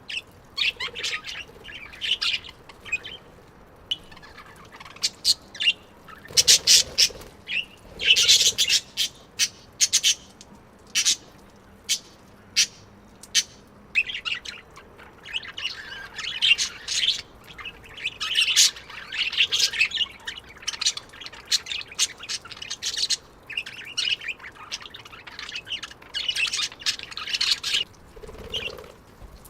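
Budgerigars chirping: a busy, irregular run of short, high calls that comes in clusters with brief gaps.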